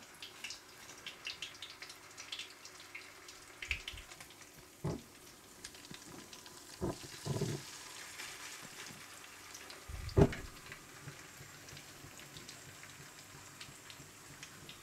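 Chapli kabab patties of beef mince sizzling and crackling in shallow hot oil in a frying pan. A few dull knocks come as a second patty is laid and pressed into the pan, the loudest about ten seconds in.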